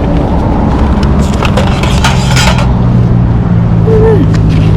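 A motor vehicle's engine running with a steady low hum, with scattered clicks and a brief rustling scrape about two seconds in as items in the pile are handled.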